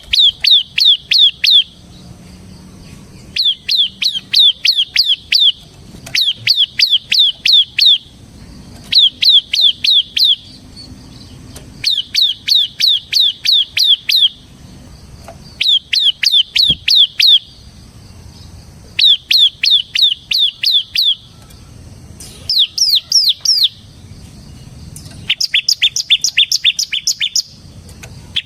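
Ciblek (bar-winged prinia) singing rapid drilling phrases: each phrase is a quick run of sharp, falling whistled notes lasting about two seconds, repeated about nine times with short pauses between. The last phrase is higher and faster.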